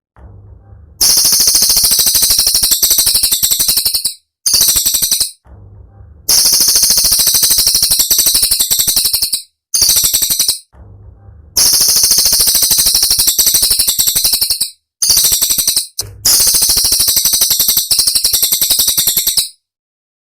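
Cililin songbird song: loud, very rapid runs of sharp, high, piercing notes ('tembakan') in bursts of one to four seconds, with short pauses between them. It is a bird-training recording meant to be copied by other songbirds.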